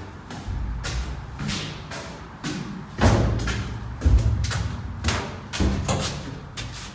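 Footsteps walking at about two steps a second on the floor of a train car, with two heavier thuds about three and four seconds in.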